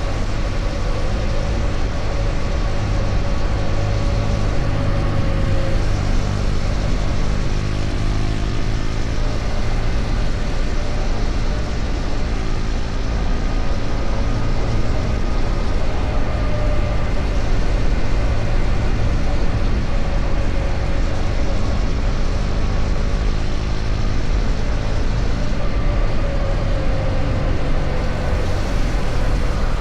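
KTM Duke 250's single-cylinder engine running at steady highway speed, mixed with road noise. The engine note shifts slightly in pitch about a quarter of the way in and again near the end.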